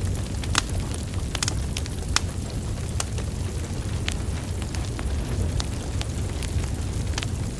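Wood fire burning: a steady low rumble of flames with irregular sharp crackles and pops from the burning logs, several a second.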